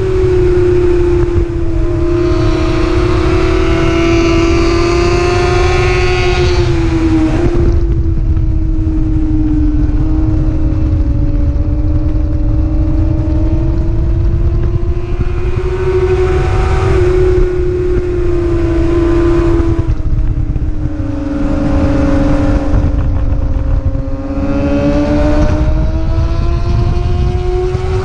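Racing motorcycle engine held at high revs, its pitch easing gently down and back up, with the sound growing brighter three times as the throttle opens harder. A heavy rush of wind noise runs underneath.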